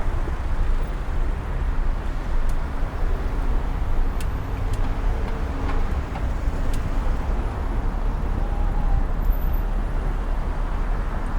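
Steady city street traffic noise heard from a bicycle riding among cars, with a low rumble throughout and a few faint clicks.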